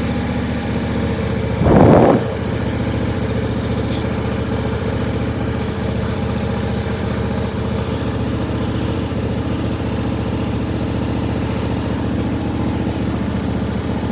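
Riding lawn tractor's engine running steadily, warmed up and kept running to charge its weak battery. A brief louder noise cuts in about two seconds in.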